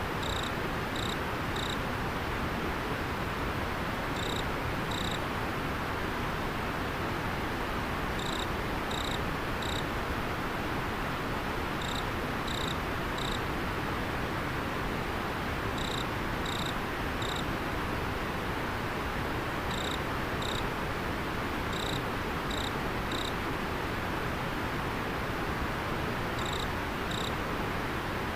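Steady rush of river water, with an insect calling in short, high chirps that come in clusters of two to four, about every four seconds.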